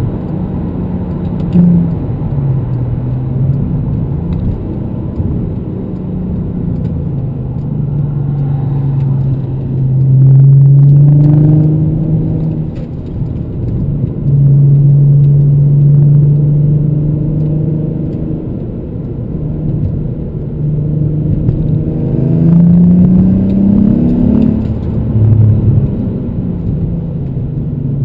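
Golf R32's 3.2-litre V6 and Milltek non-resonated cat-back exhaust heard from inside the cabin on the move: a deep, steady drone that swells loudly under throttle and eases back when the throttle is light. The pitch climbs with the revs near the end. The drone comes from the exhaust having no resonator.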